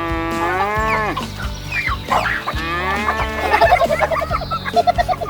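Cattle mooing: two drawn-out calls that rise and then fall in pitch, followed near the end by a quick run of short calls, over background music.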